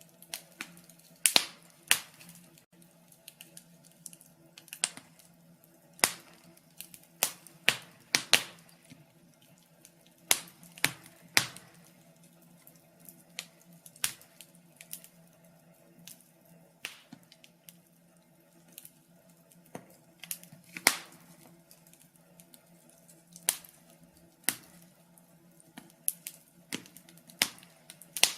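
Wood fire burning in a fireplace, crackling with sharp irregular pops, often one or two a second and sometimes bunched, over a faint steady low hum.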